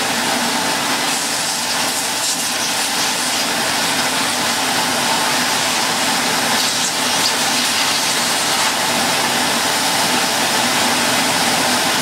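Vacuum cleaner running steadily with a loud rush of suction air, used to suck compacted dust out of a clogged floor head.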